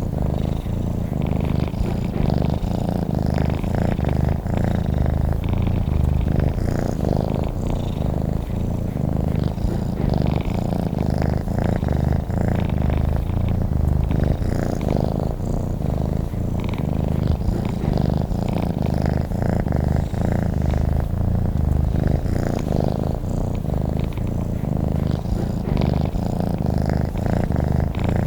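Domestic cat purring continuously: a steady, low, rapid rumble.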